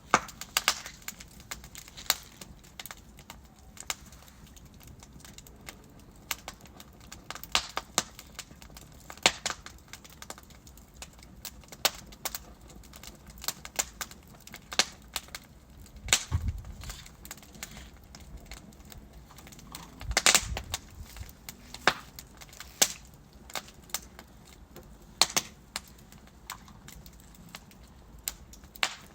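Wood logs burning in a fireplace, crackling with irregular sharp pops and snaps over a low steady hiss of the flames; a few louder pops stand out about halfway through and again a few seconds later.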